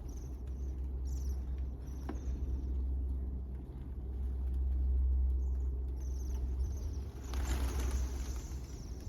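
Many small birds chirping, short high calls again and again, over a steady low rumble. A brief rushing noise comes about seven and a half seconds in.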